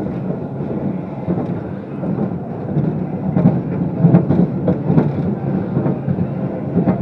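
An amusement ride car rumbling and clattering along its track, growing louder with a run of knocks about halfway through.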